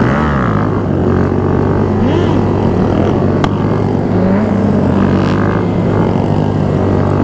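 Motorcycle engines running on a group ride: a steady engine drone with other bikes' revs rising and falling over it. A single sharp pop comes a little under halfway through.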